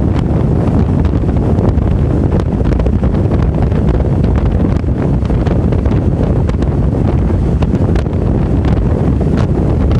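Loud, steady wind noise on the microphone of a camera on a moving motorcycle.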